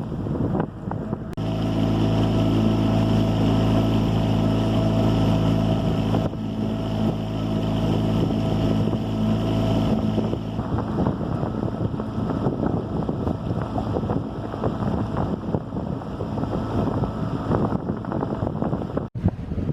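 A boat engine running at a steady speed for several seconds, then wind and water noise rushing over the microphone, with a sudden cut near the end.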